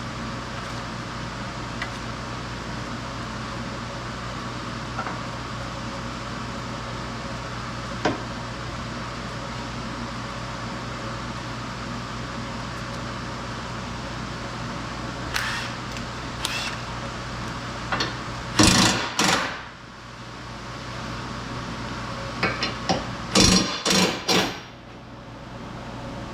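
Hand tools knocking and clattering against metal in several short clusters over a steady workshop hum, loudest about two thirds of the way in and again near the end.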